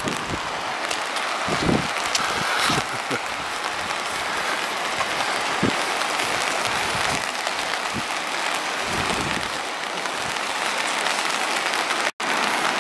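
Steady rain falling, an even hiss of drops with a brief dropout near the end.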